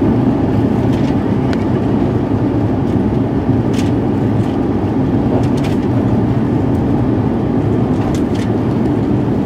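Steady low rumble of an Airbus A350-900 airliner heard from inside the passenger cabin, with a few faint clicks and rattles scattered through it.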